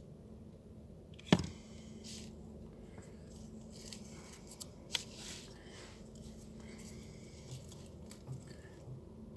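Hands working with craft materials: light rustling and small clicks, with one sharp tap about a second in and a smaller one near the middle, over a faint steady hum.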